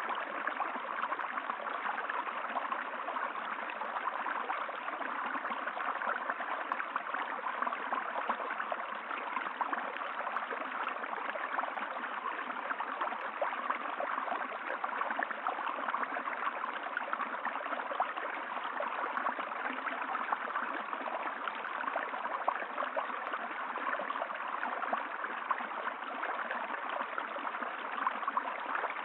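Steady running water of a flowing stream, unchanging throughout.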